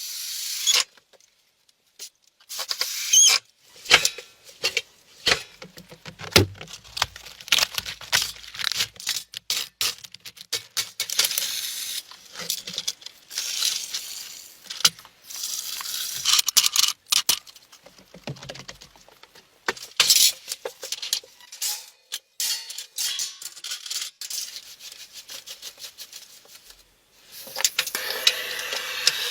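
Irregular close-up handling noises: short rustling and scraping bursts, clicks and knocks, with longer steadier rustling stretches near the start and near the end.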